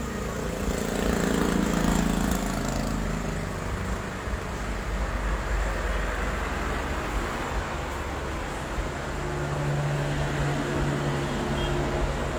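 A motor vehicle's engine running amid steady road noise, with a steady low hum from about nine seconds in.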